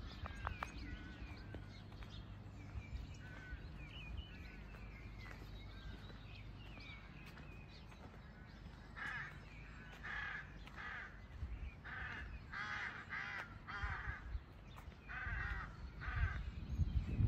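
Birds calling: faint small-bird chirps, then from about halfway a long run of harsh cawing calls, about two a second.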